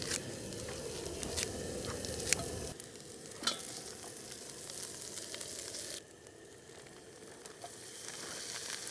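Green onions frying in oil in an aluminium pot to make scallion oil: a steady sizzle with a spatula stirring. A few sharp clicks in the first three or four seconds come as kitchen scissors snip the onions into the pot.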